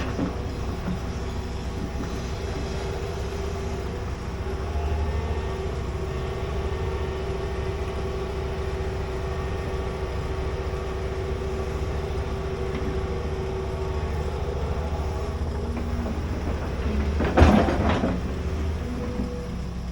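Large excavator's diesel engine running steadily under working load. There is one loud clank near the end.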